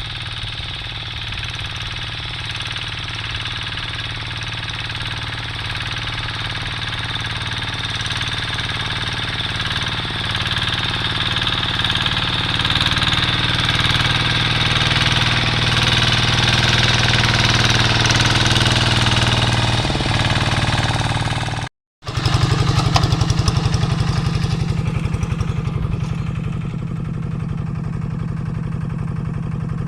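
Quick G3000 two-wheel hand tractor's diesel engine running steadily under load, growing gradually louder. A brief break comes about 22 seconds in, and the engine then resumes with a stronger low, rapidly pulsing note.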